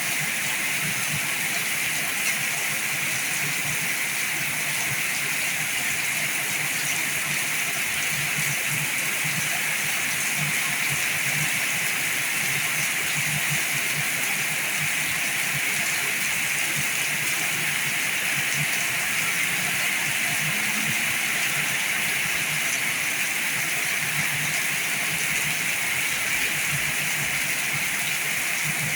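Heavy rain falling steadily, an even hiss of water that keeps on without let-up.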